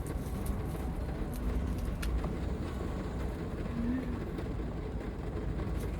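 Steady heavy rain drumming on the roof of a Toyota HiAce van, heard from inside the van as an even, low rush. A couple of faint clicks about two seconds in.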